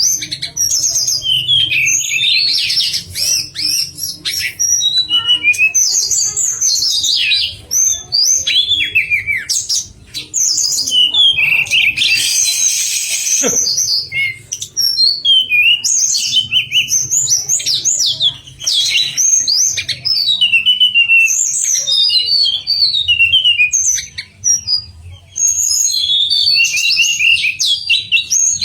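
A tledekan songbird singing a fast, continuous chattering song of quick chirps and trills, with a harsher, hissing stretch about twelve seconds in. A faint low hum lies under it.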